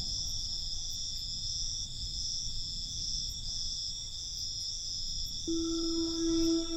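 Crickets chirping in a steady, evenly pulsing high trill over a low rumble. About five and a half seconds in, a held low synthesizer tone from ambient music comes in under them.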